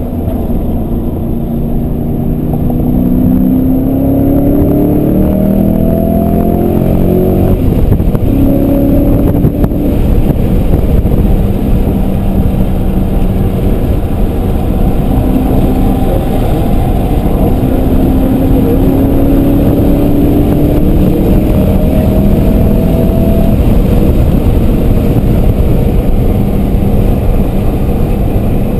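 BMW E39 M5's V8, its exhaust with the muffler deleted, heard from inside the cabin while the car is driven hard. The engine note climbs steadily for the first several seconds, holds steadier, then climbs again past the middle, over loud road and wind noise.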